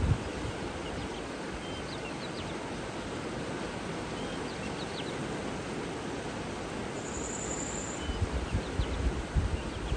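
Running water with a steady rushing sound, with birds giving short, faint chirps throughout and a thin, high trill for about a second around seven seconds in. Low gusts of wind buffet the microphone near the end.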